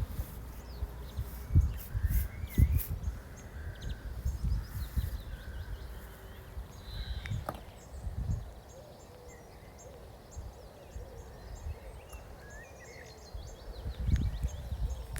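Outdoor nature ambience: several birds chirping and trilling, over irregular low rumbles and thumps that are loudest about two seconds in and again near the end.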